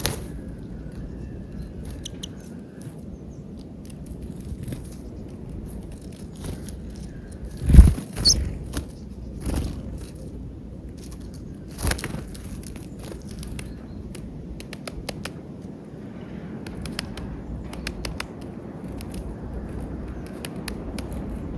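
Birds feeding on peanuts at an outdoor feeder: light pecking and scrabbling clicks over steady background noise, with a few louder knocks about 8 and 12 seconds in.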